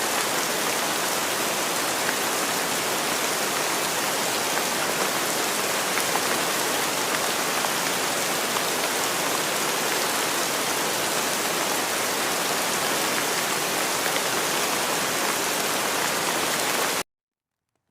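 Steady rain falling: a dense, even hiss with faint scattered drop taps. It cuts off suddenly about a second before the end.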